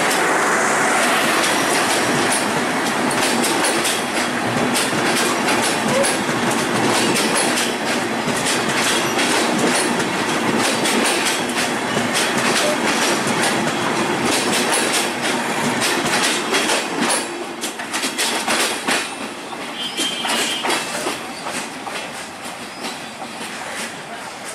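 Passenger train coaches rolling past close by: a steady rumble of wheels on rail with repeated clickety-clack over the rail joints. The sound fades over the last several seconds as the end of the train draws away.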